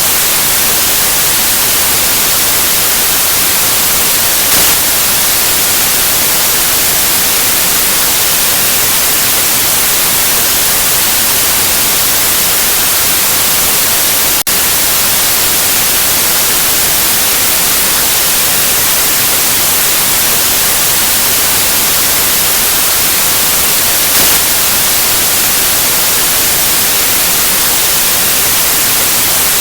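Steady, loud white-noise hiss with no tones or rhythm, brightest in the highs. It is broken once about halfway through by a single brief click.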